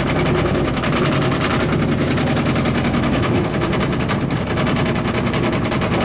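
A washing machine rebuilt as an apple grinder, running: its motor spins a spiked grinder disk with a rapid, steady clatter.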